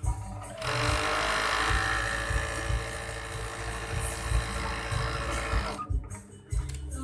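Overdeck (coverstitch) sewing machine running steadily for about five seconds, starting just under a second in and stopping near the end.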